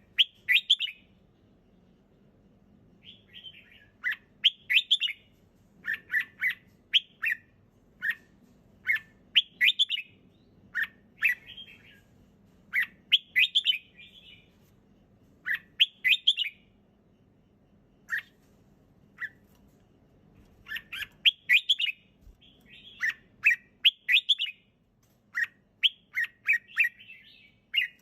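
Red-whiskered bulbul singing: short, clear warbled phrases, one every second or so, separated by brief pauses.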